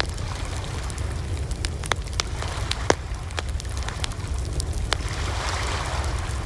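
Campfire burning, wood crackling and popping at irregular intervals over a steady low rumble of the flames, with one sharper pop about three seconds in.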